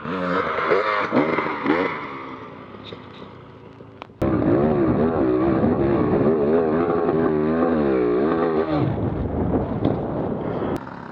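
Dirt bike engine revving up and down. Its pitch rises and falls repeatedly. About four seconds in, the sound jumps abruptly to a louder stretch of hard revving, which eases off near the end.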